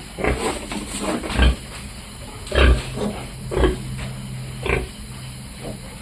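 Pigs grunting: about five short, separate grunts.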